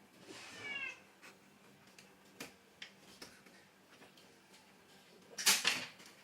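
A cat meows once, briefly, about half a second in. A few faint clicks follow, and near the end comes a short, louder burst of noise, the loudest sound here.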